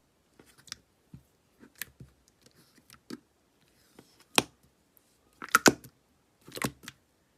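Slime being squeezed and worked by hand, giving scattered sticky clicks and small pops, the sharpest about four and a half and five and a half seconds in.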